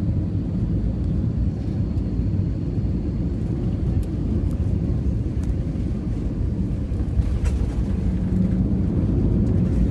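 Steady low rumble of an Airbus A321 airliner in flight, heard inside the passenger cabin: engine and airflow noise, growing a little louder near the end.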